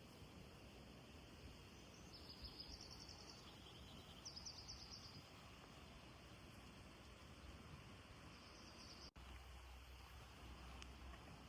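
A small bird singing short, rapid high trills a few times over a faint, steady background hiss. About nine seconds in, the sound drops out for an instant and a low hum comes in.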